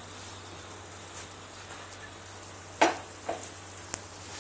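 Paneer-stuffed paratha cooking on a hot nonstick tawa, a steady faint sizzle. About three seconds in comes a sharp knock, then a lighter one.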